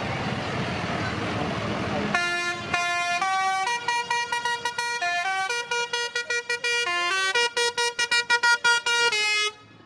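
Vehicle noise for about two seconds, then a vehicle's musical horn playing a tune: separate notes stepping up and down in pitch, turning into quick repeated notes towards the end, then cutting off suddenly.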